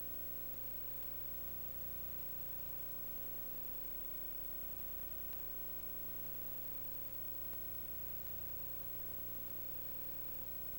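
Steady hum with even background hiss: a constant tone with a few fainter ones under it, and nothing starting or stopping.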